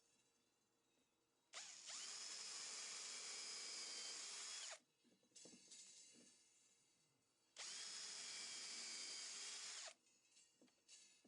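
A power drill runs twice at steady speed for about three seconds each time, spinning up quickly at the start of each run. There are a few light knocks between the runs.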